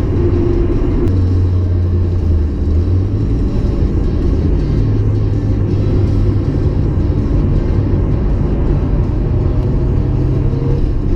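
1994 Mazda MX-5 Miata's 1.8 L twin-cam four-cylinder engine running with a steady low drone, its pitch shifting a few times.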